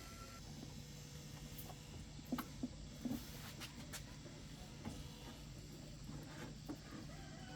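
Faint, scattered light clicks and taps, a handful over a few seconds, over a low steady hum.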